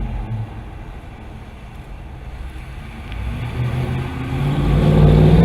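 Dodge Charger Daytona's HEMI V8 exhaust running low and steady, then revving up, getting louder and rising in pitch over the last couple of seconds.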